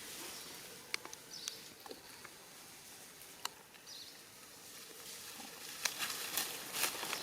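Scattered light clicks and taps over a faint hiss, with a brief high squeak about four seconds in and a quicker run of clicks near the end.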